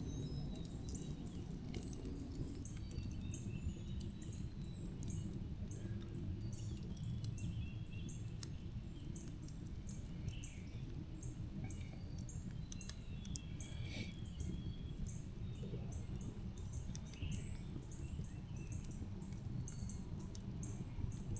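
Faint outdoor ambience: many short high-pitched chirps scattered throughout, over a low steady rumble.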